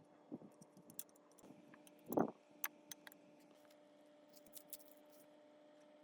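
Light metallic clicks and taps from metal parts being handled, with one louder knock about two seconds in, over a faint steady hum.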